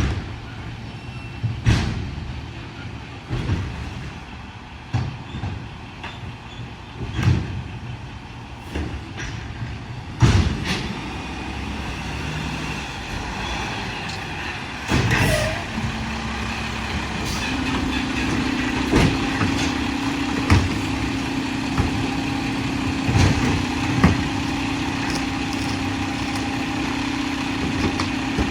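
Mack LR garbage truck with a McNeilus automated side-loader body working: the diesel engine runs under a series of clanks and bangs every second or two. About halfway through comes a louder clatter, then a steady drone that steps up in pitch and holds, as the engine speeds up to drive the body's equipment.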